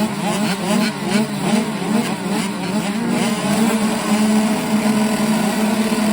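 Motocross bike engine revving hard, its pitch rising and falling again and again as the throttle is worked around the track.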